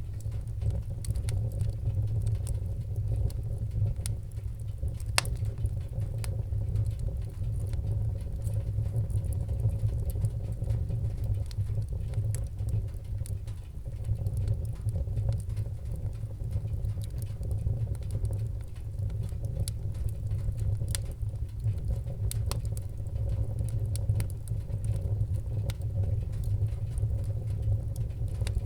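Wood fire burning in a fireplace: a steady low rumble of flames with scattered small crackles and pops, one sharper pop about five seconds in and a busier run of crackles a little past the twenty-second mark.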